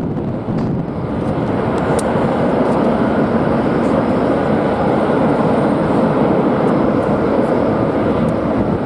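Jet airliner engines, a loud, steady rush of noise that builds a little over the first couple of seconds and then holds.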